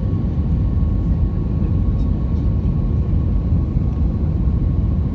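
Steady engine drone and airflow rumble heard inside the cabin of an Airbus A320-214 with CFM56-5B engines, a constant whine running through the low rumble.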